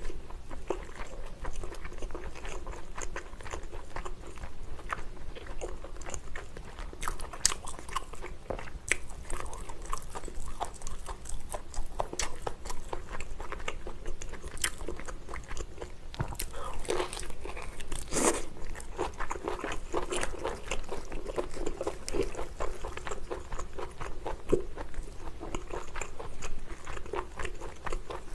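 Close-miked eating: a person biting and chewing lobster, with a dense run of small crunching clicks and smacks.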